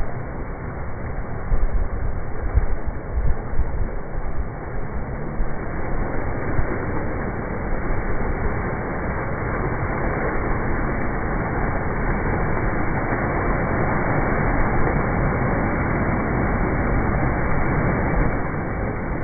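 Wind buffeting the microphone in strong, irregular gusts over a steady rushing roar, the gusts easing after the first several seconds.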